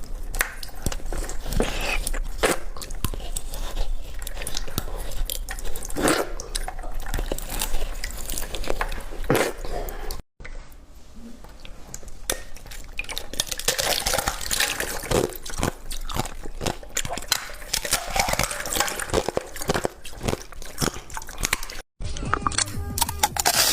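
Close-miked biting and chewing of ice, a dense run of sharp, irregular crunches with wet, drippy sounds in between. The sound cuts out abruptly twice, about 10 s and 22 s in, before the crunching resumes.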